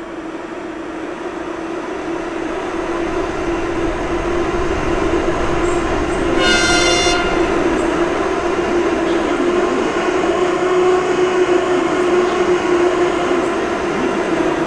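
Metro train running, its noise building over the first six seconds, with a short, high-pitched horn toot about six and a half seconds in.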